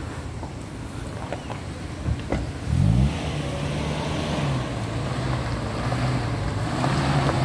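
A few light knocks, then about three seconds in a motor vehicle's engine comes up with a brief rising rev and settles into a steady running note.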